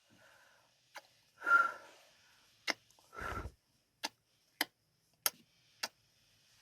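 Close-microphone ASMR kissing sounds: a series of sharp lip smacks, about one every half second to second, with two longer, breathier kisses in the first half.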